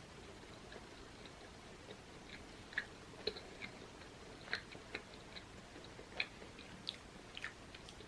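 Close-miked chewing of a soft purple sweet potato bun with a sweet mashed purple sweet potato filling: faint, irregular wet mouth clicks and lip smacks that start about two seconds in.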